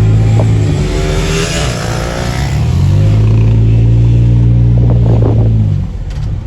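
A 250 cc motorcycle engine running at steady revs. It eases off about a second in, rises again around three seconds in, and falls away near the end.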